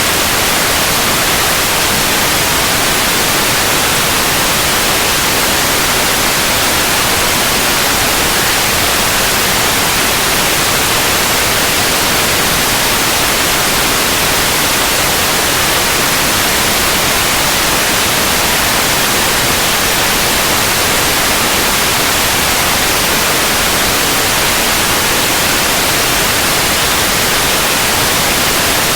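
Steady white noise: an even, unchanging hiss that is brightest in the high frequencies.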